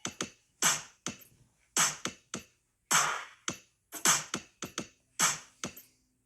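Sparse drum-machine beat: a sharp percussion hit about once a second with lighter hits between, with no melody or voice.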